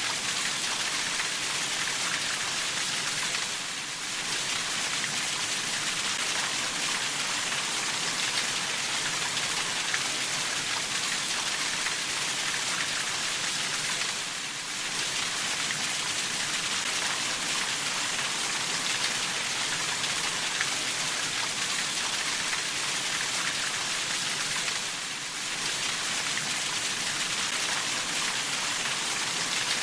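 Steady rain falling, an even hiss that dips briefly about every ten seconds.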